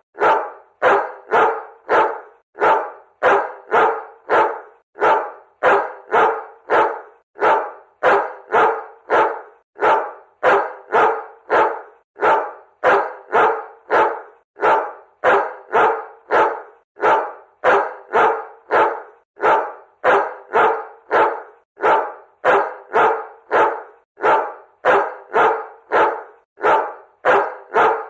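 A dog barking over and over, short sharp barks at roughly two a second, keeping up an even rhythm without a pause.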